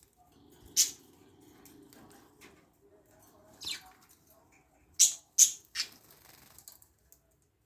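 Budgerigars giving short, sharp high-pitched chirps: one about a second in, another past the middle, then three in quick succession.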